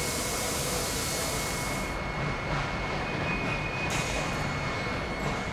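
Steam locomotive hissing steam over a steady low rumble, the hiss cutting off abruptly about two seconds in.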